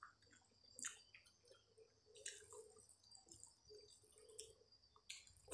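Faint wet chewing of a mouthful of rice and curry eaten by hand, with small mouth clicks and smacks, a few sharper ones about a second, two seconds and five seconds in.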